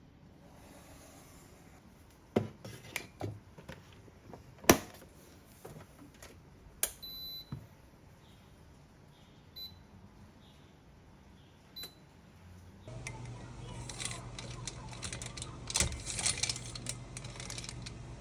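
Light clicks and knocks, then a few short electronic beeps such as a kitchen appliance's control panel gives. About two-thirds of the way in, a steady hum starts, with a rapid clatter of light clicks over it.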